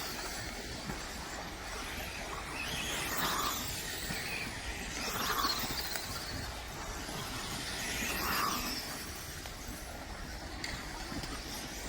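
Remote-control racing cars passing one after another, their motors whining in swells that rise and fall every two to three seconds.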